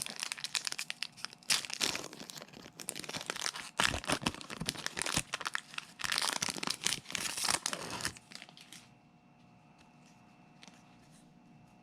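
Foil Pokémon booster pack wrapper being torn open and crinkled in the hands. The crackling goes on for about eight seconds, then stops.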